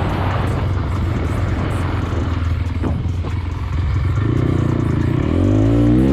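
Vehicle engine running under a steady rushing noise, its pitch rising near the end as it revs up.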